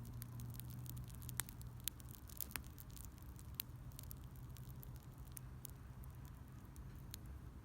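Wood fire crackling: irregular sharp pops and ticks, a few louder ones in the first four seconds, over a faint low steady hum.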